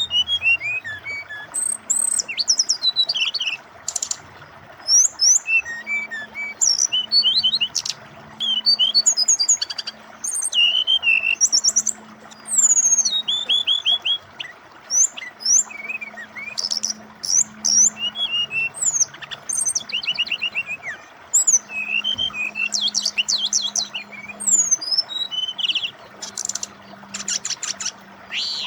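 Brown-chested jungle flycatcher singing a busy, varied song of quick whistles, pitch-sliding notes, rapid trills and sharp clicks, over a steady sound of flowing water.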